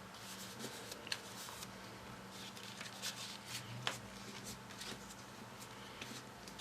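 Folded paper modules rustling, with small crisp clicks and ticks as the pieces of a modular origami model are handled and fitted together, over a low steady hum.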